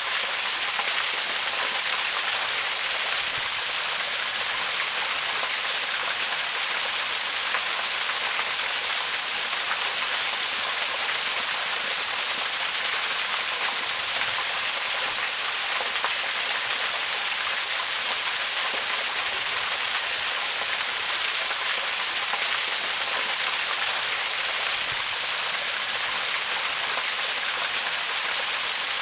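Waterfall: a steady, even rush of falling water, a continuous hiss weighted toward the high end with little low rumble.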